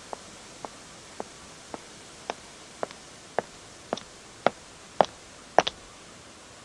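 Footsteps on pavement, about two a second, growing steadily louder as the walker comes closer, ending in a doubled step after about eleven strides. A steady faint hiss runs beneath them.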